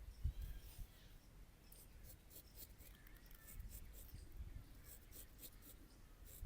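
Straight razor scraping over stubble in a quick run of short, faint scratchy strokes, with a few dull low thumps near the start.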